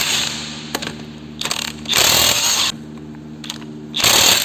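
Impact wrench hammering in short bursts of about half a second, with a steady low hum between them, breaking loose a car wheel's lug nuts.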